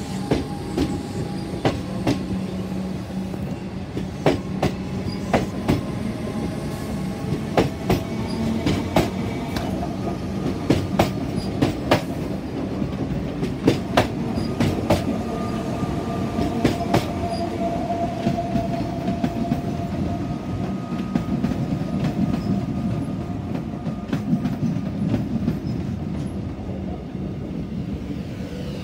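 Suburban electric trains running past at low speed: a steady rumble with many sharp, irregular clacks of steel wheels over rail joints and points, and a faint wheel whine held for a few seconds in the middle.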